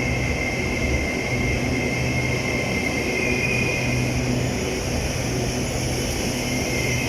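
Steady running noise of a moving vehicle heard from inside, a low hum under an even rush with a faint high whine.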